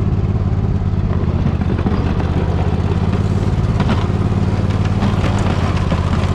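Poulan riding mower's engine running steadily under load while pushing snow with a front plow, with a few brief knocks in the second half.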